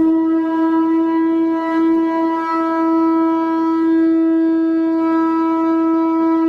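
Conch shell trumpet blown in one long, steady note with a rich set of overtones.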